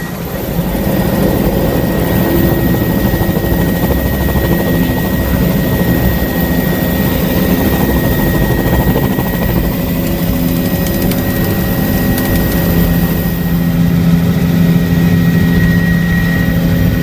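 Tour helicopter's engine and rotor running steadily, loud, with a thin high whine over a low drone; it grows louder about a second in.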